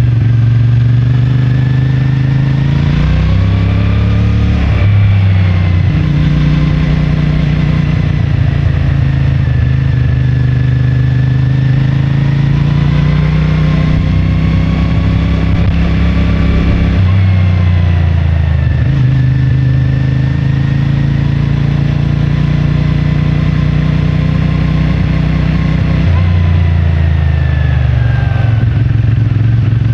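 CFMoto 450MT's parallel-twin engine running with its stock exhaust while riding through city streets, the engine note shifting with throttle and gear changes around 5, 17 and 26 seconds in.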